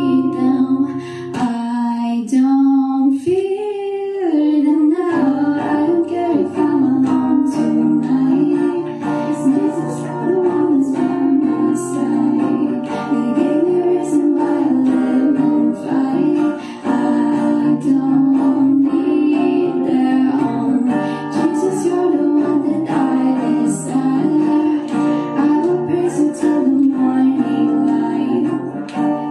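A solo voice singing a slow original song live, accompanied by guitar; the accompaniment fills out with fuller low chords about five seconds in.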